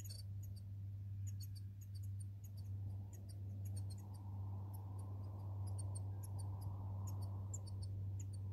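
Short, high chirps of small birds scattered over a steady low hum, with a soft rushing noise that swells from about three seconds in.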